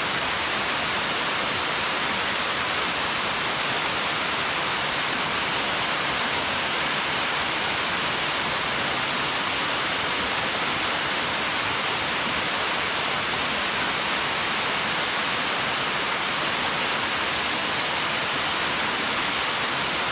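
Waterfall pouring into a rocky mountain stream: a steady, even rush of falling water.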